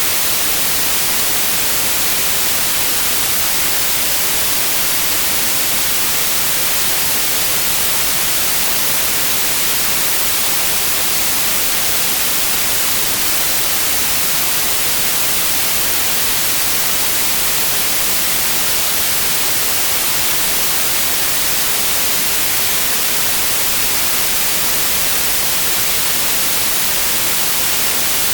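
Synthetic white noise: a steady, loud, even hiss, brightest in the high frequencies, with no change or break.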